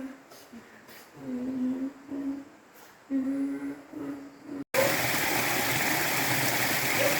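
A voice humming a slow tune in short held notes. About two-thirds of the way through it cuts off abruptly and is replaced by steady rushing water from a stream.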